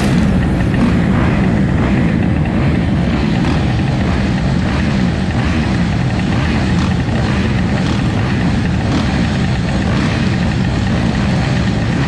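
Dirt bike engines running in a continuous drone, their pitch wavering slightly.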